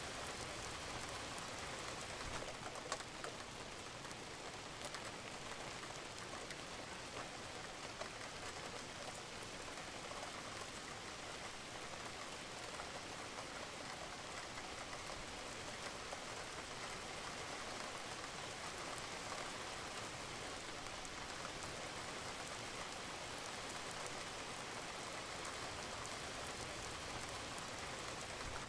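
Light rain falling steadily, with a few louder single drops ticking now and then.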